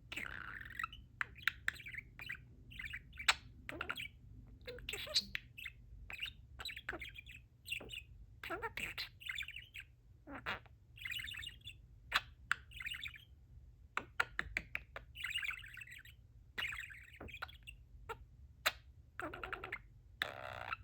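Pet budgerigar (parakeet) warbling and chattering in a steady stream of short chirps, clicks and slurred, speech-like babble.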